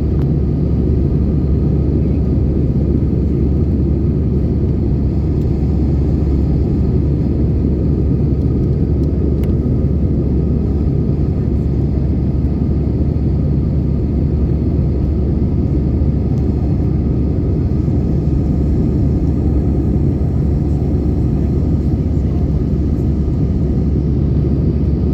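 Steady low rumble inside a jet airliner's cabin in flight: engine and airflow noise, unchanging in level.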